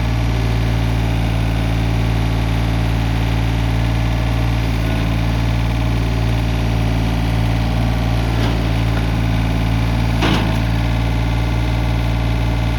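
John Deere 855 compact tractor's three-cylinder diesel engine running steadily at a constant speed. A brief sharp noise cuts across it about ten seconds in.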